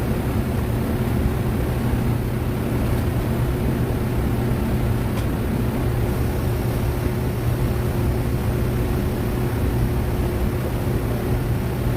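Steady machine hum with a constant low drone.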